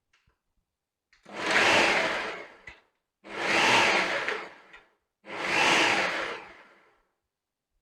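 Electric blender pulsed three times, blitzing chopped onion, ginger and lemongrass with oil into a paste. Each run lasts under two seconds, starting suddenly and fading as the motor winds down.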